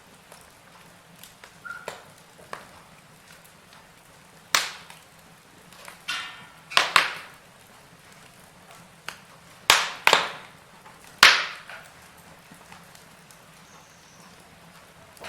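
Wood fire burning in a fireplace, crackling over a faint hiss, with a handful of loud, sharp pops from the burning logs, the loudest about halfway through and a second or so later.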